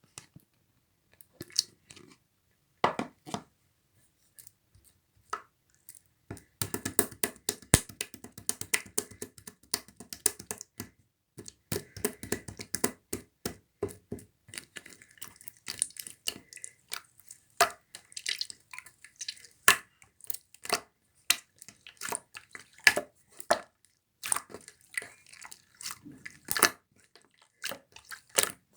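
Blue clear slime being squeezed, stretched and pressed by hand, giving irregular sticky clicks and pops. The clicks are sparse for the first few seconds, then come thick and fast from about six seconds in.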